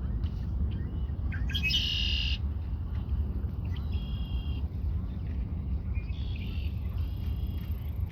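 Red-winged blackbird singing. Its loudest song phrase comes about a second and a half in, with shorter phrases around four seconds and again around six to seven seconds, over a steady low rumble.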